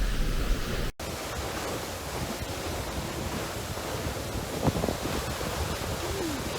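Close-up rush of a waterfall and its spray, a steady, even roar with wind buffeting the microphone. It breaks off for an instant about a second in and then carries on unchanged.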